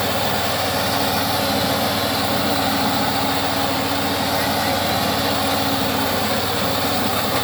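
ASPEE reaper's 6.5 hp 170F single-cylinder four-stroke petrol engine running steadily.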